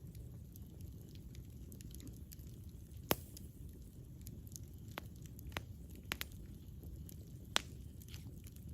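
Wood campfire crackling over a low, steady rumble of flames. Sharp pops come through: a loud one about three seconds in, then several more scattered through the rest.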